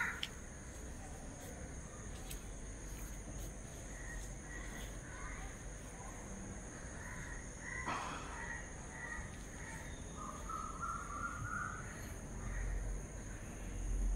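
Faint bird calls now and then, with one longer call about two-thirds of the way in, over a thin, steady high-pitched tone.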